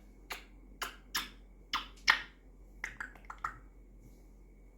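A run of sharp clicks and pops, about nine over three and a half seconds, uneven in spacing, then they stop.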